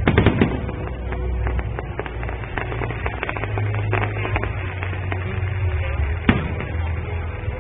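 Aerial fireworks bursting and crackling, with a loud bang just after the start and another sharp bang near the end, over the show's music.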